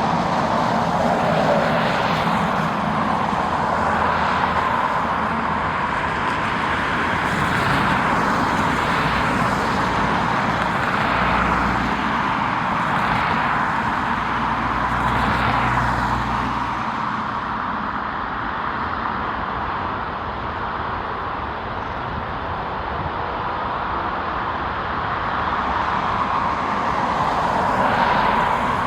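Jet airliner engines heard at close range as the aircraft passes, a steady loud noise with a deeper rumble from about eleven to seventeen seconds in, easing slightly after that.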